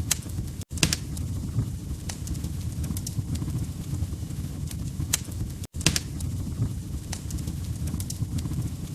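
Log fire in a fireplace crackling: a steady low rumble of flames with sharp, irregular pops and snaps. The sound cuts out for an instant twice, under a second in and again past the middle.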